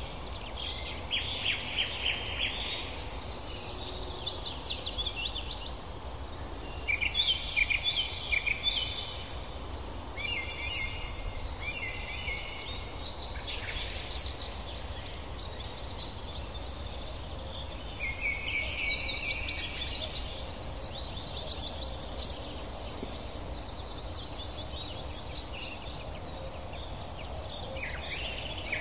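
Small birds chirping and chattering in repeated high, rapid bursts of a second or two, with a few short single chirps between them, over a steady low background rumble.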